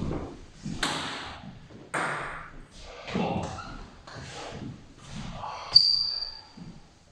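Table tennis ball knocking on bats and table, spaced knocks ringing in a large hall. Near the end comes a sharp, high, ringing ping that fades over about a second.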